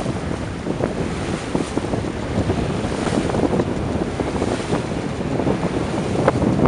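Strong wind buffeting the microphone aboard a heeling sailboat, with water rushing and splashing against the hull.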